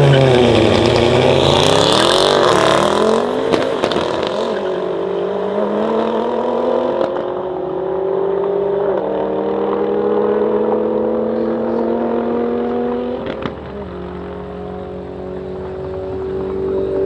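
Mercedes-AMG GT63s twin-turbo V8, tuned to 800 hp with downpipes, accelerating under sustained power. Its note climbs slowly and steadily for many seconds, then drops at an upshift about 13 seconds in and starts climbing again.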